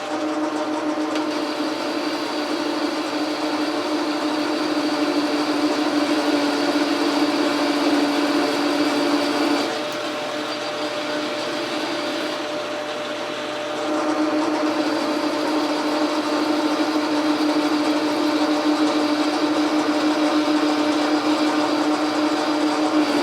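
Logan metal lathe running, its motor and gearing giving a steady hum with a high whine on top. Partway through the sound drops a little and the lower hum falls away for about four seconds, then comes back as before.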